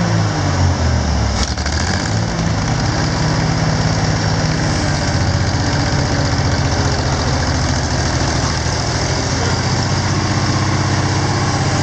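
Oliver 1750 tractor engine running. Its pitch dips and comes back up over the first couple of seconds, then it settles into a steady, even beat.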